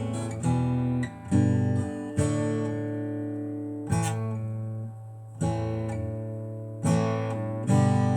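Slow guitar chords, each strummed once and left to ring for about a second or more: an instrumental break in a ballad, with no singing.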